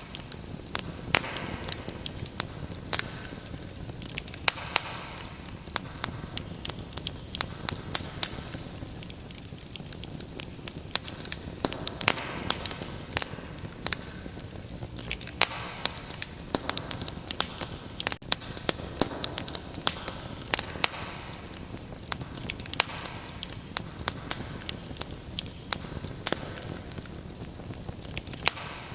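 Wood fire crackling: a steady soft hiss with many sharp, irregular pops and snaps.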